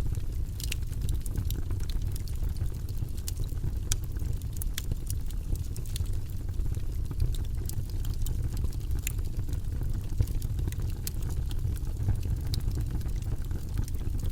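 Campfire crackling: irregular sharp pops and snaps of burning wood, several a second, over a steady low rumble.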